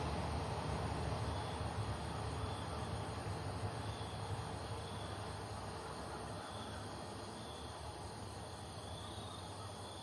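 Low rumble of a State Railway of Thailand diesel-hauled train dying away as it moves off into the distance. Faint short insect chirps repeat about once a second over it.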